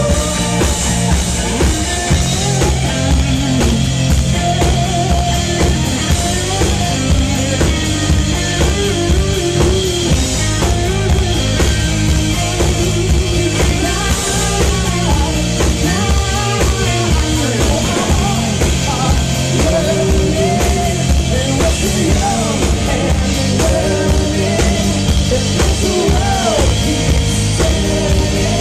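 Live pop-rock band playing loud: a steady drum-kit beat under electric guitars and a winding melodic lead line.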